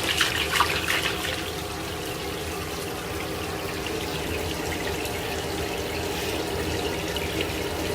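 Shower water running steadily into a tub, with irregular splashing in the first second.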